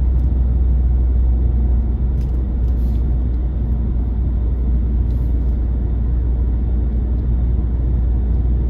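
Steady low rumble of a car driving, heard from inside the cabin: engine and road noise, with a few faint ticks.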